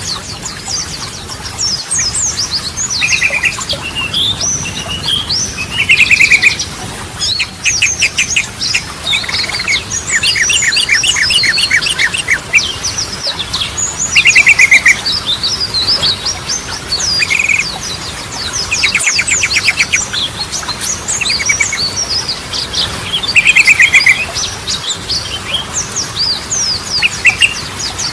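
Yellow-vented bulbul (trucukan) song: a dense stream of loud chirps and squeaky whistled notes, broken every few seconds by short, fast rattling trills.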